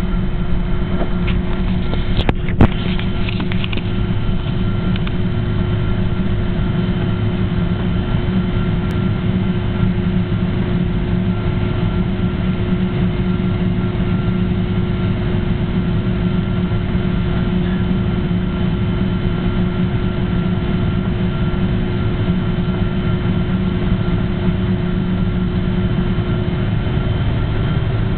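Steady jet engine and cabin noise aboard a Boeing 777, a constant drone with a few steady hum tones and no spool-up, broken by one sharp click about two and a half seconds in.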